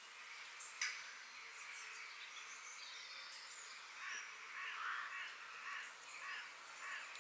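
Outdoor nature ambience: a steady background hiss with small birds chirping high and thin, a sharp click about a second in, and from about four seconds in a series of about five harsh bird calls.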